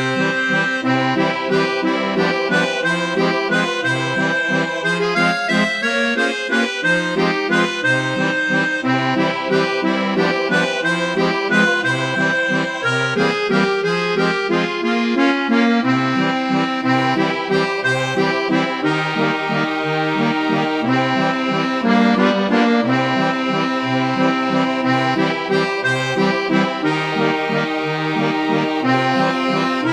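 Accordion playing a waltz: a melody over a bass that repeats in a steady pulse.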